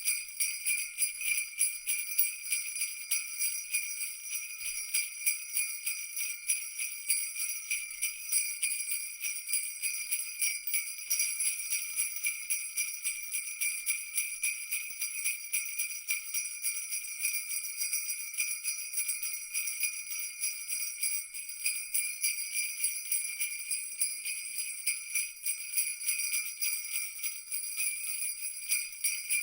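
Jingle bells shaken continuously in a fast, even jingle, their high metallic ringing steady throughout.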